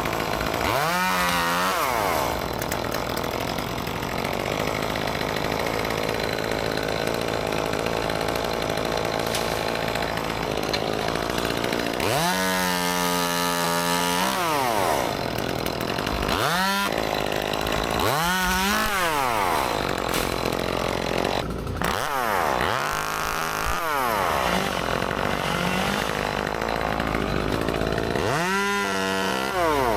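Gas chainsaw cutting wood at full throttle. About six times it drops briefly toward idle between cuts and revs back up, its pitch falling and rising each time.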